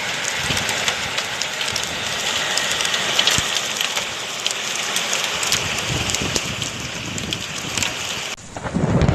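Heavy rain pouring down and splattering, with many sharp drop hits. Near the end it cuts off abruptly and a low rumble of thunder takes over.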